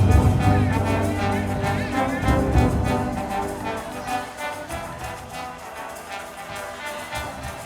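Concert wind band playing, with brass and woodwinds over drum beats. There are heavy drum strokes at the start and again about two and a half seconds in, then the music softens.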